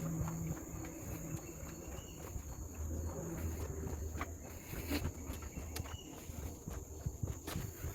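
Steady high-pitched drone of forest insects, with low rumble and a few scattered clicks underneath.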